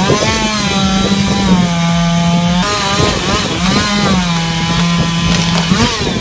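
Two-stroke chainsaw cutting into a tree trunk in two long passes about a second apart, its engine note sagging as the chain bites into the wood.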